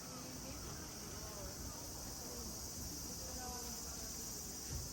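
Steady, high-pitched insect chorus, with faint distant voices murmuring underneath.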